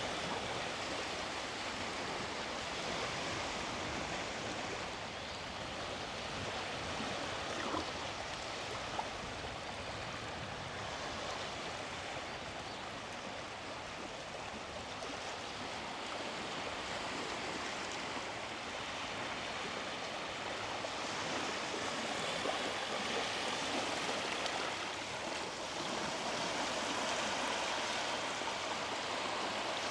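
Small sea waves washing onto the beach: a steady rush of surf that swells and eases over several seconds.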